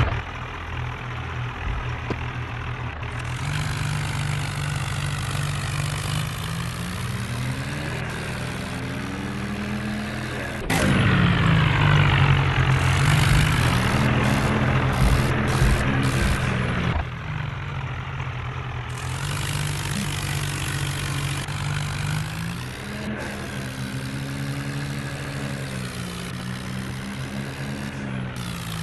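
John Deere tractor's diesel engine running, its speed rising and falling several times as it works, with a louder stretch in the middle.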